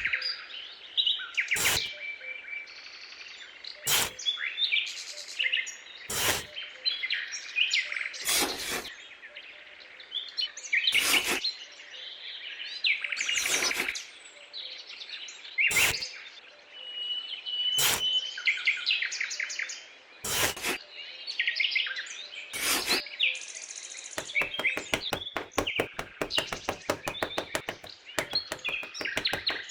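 Small birds chirping and calling, with a sharp knock about every two seconds; near the end the knocks give way to a fast run of clicks.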